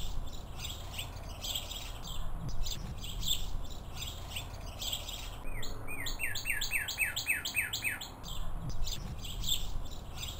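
Wild birds chirping repeatedly, with one bird giving a quick run of about eight short descending notes about halfway through, over a low steady rumble.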